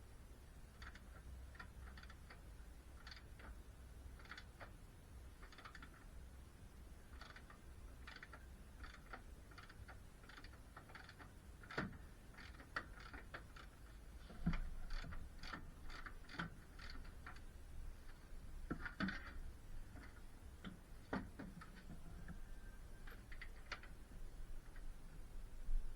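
Irregular light clicks and taps, with a few louder knocks in the second half.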